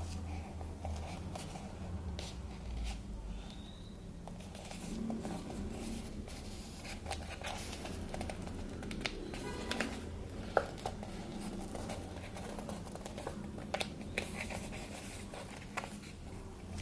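Paper being handled and shaped by hand for paper-cone Christmas trees: soft rustling with scattered light clicks and taps, the sharpest tick about ten seconds in, over a low steady hum.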